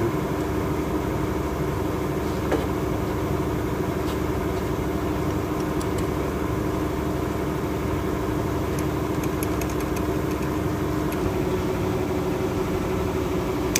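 Steady mechanical hum of a motor running, with a low drone that holds one even pitch throughout. A single light click comes about two and a half seconds in, and a few faint ticks follow later.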